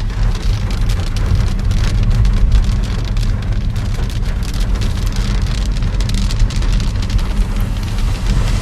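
Heavy rain falling, with many separate drop impacts over a steady hiss and a deep rumble underneath.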